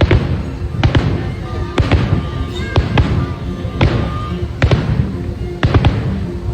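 Fireworks bursting in sharp bangs about once a second, each trailing off briefly, over the show's music soundtrack.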